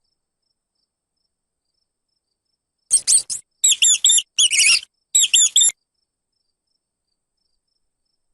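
A mouse squeaking: about five quick clusters of very high-pitched squeaks starting about three seconds in and stopping a little before the six-second mark.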